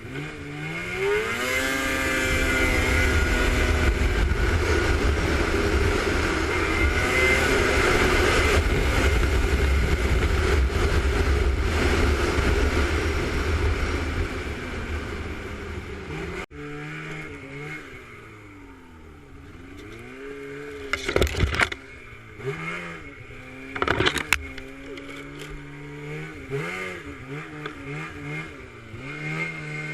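Off-road vehicle engine running at high revs, its pitch climbing over the first couple of seconds. About two-thirds of the way in the sound cuts abruptly to a quieter engine whose pitch rises and falls with the throttle, with two sharp knocks a few seconds apart.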